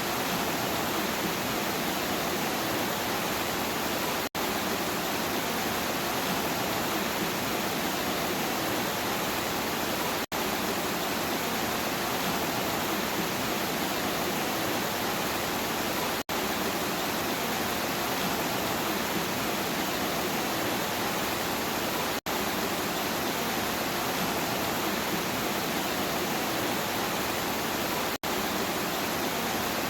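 Steady, dense rain hiss, broken by a very brief dropout about every six seconds, where a short looped recording repeats.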